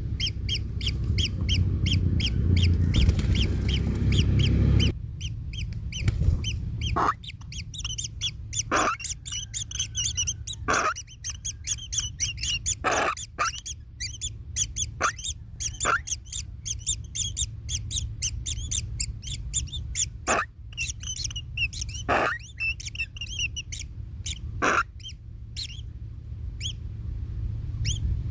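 Kingfisher nestlings calling: a fast, unbroken stream of high, thin begging chirps, with louder short sweeping calls every second or two. A heavy low rumble sits under the calls for the first five seconds, then stops.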